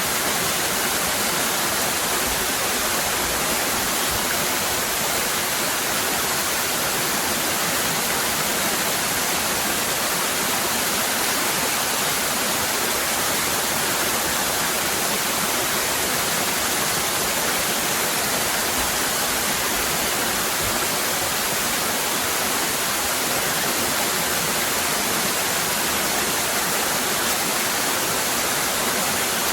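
Cascading waterfall: a steady, even rush of falling water that stays the same throughout.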